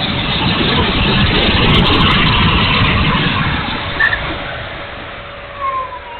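Electric ducted fan of an E-flite F-16 70 mm RC jet rushing past in flight, swelling about two seconds in and fading away towards the end.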